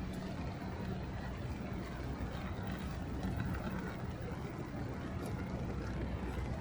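Steady outdoor city-street noise: a constant low rumble under an even hiss, with a few faint ticks.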